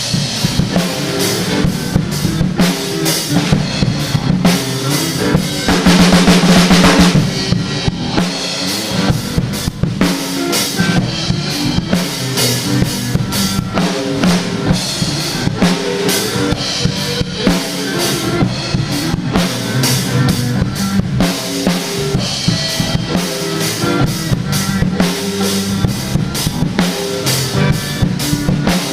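DW Collector's Series drum kit played in a busy groove of quick snare, kick and cymbal strokes along with a rock backing track. About six seconds in, a loud cymbal crash rings out for about a second.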